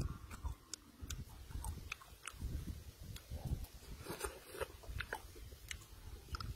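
Close, wet chewing and mouth smacks of a man eating grilled chili snail meat, with scattered small clicks.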